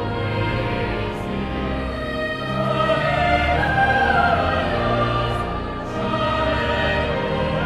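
Choral music: voices singing held, slowly moving notes over an accompaniment, with the sound swelling a little in the middle.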